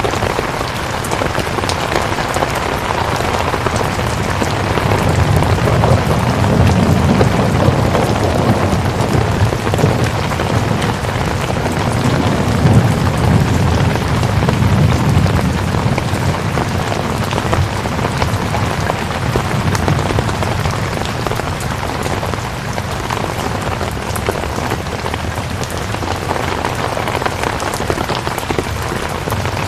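Steady rain falling, an even hiss of many drops. A low rumble swells and fades between about five and sixteen seconds in.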